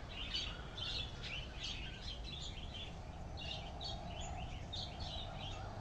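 Birds chirping, with many short high calls throughout, over a steady low background rumble. A faint steady hum joins about halfway through.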